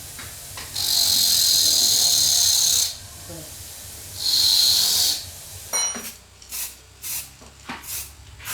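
A pressurized spray nozzle hissing in bursts: one long burst of about two seconds, a shorter one a little later, then a quick run of short bursts about two a second near the end.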